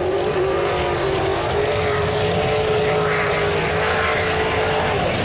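Drag race car engine running steadily at a fast idle, with a steady high whine over the rumble of the exhaust.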